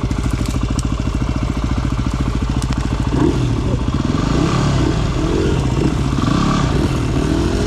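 Dirt bike engine idling with an even, rapid beat. From about three seconds in, the sound turns uneven, with a wavering pitch over the idle.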